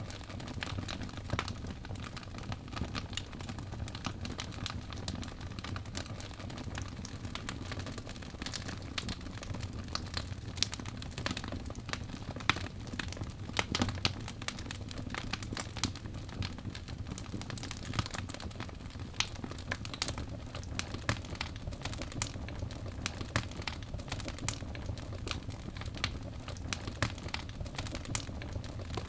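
Wood fire burning in a fireplace, crackling: irregular sharp pops and snaps, several a second, over a steady low rumble of the flames.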